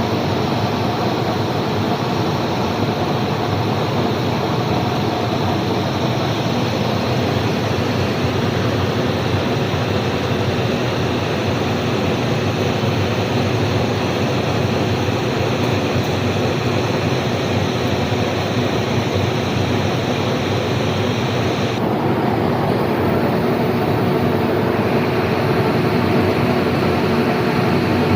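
SK 12 vertical turning lathe running with a steady mechanical hum and hiss; about 22 seconds in, the upper hiss drops away suddenly while the hum carries on.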